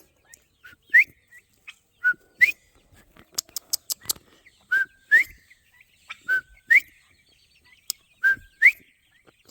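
A two-part whistle repeated five times: a short level note sliding straight up into a higher one, with small clicks and knocks in between.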